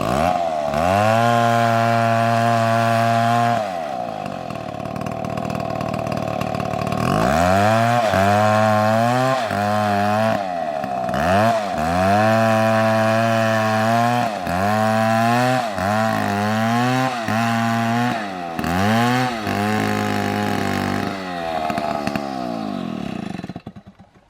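Two-stroke chainsaw revved hard again and again, its pitch climbing and sagging with each pull of the throttle, with a lower idling stretch in between. It winds down and cuts out near the end.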